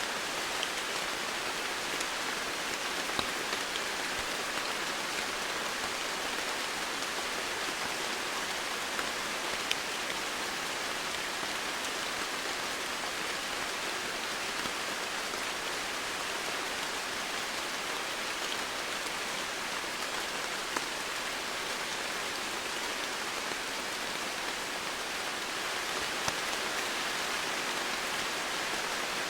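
Steady rain falling, a dense even hiss with scattered individual drops ticking now and then.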